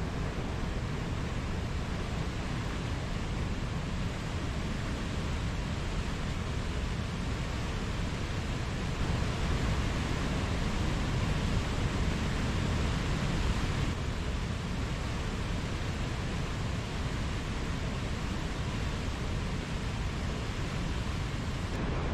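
Mountain stream water rushing steadily over rocks, a little louder for a few seconds midway.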